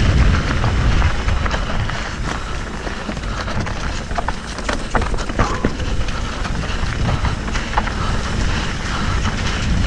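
Wind buffeting the camera microphone during a mountain-bike descent on a dirt trail, with tyre rumble and scattered sharp clicks and rattles from the bike.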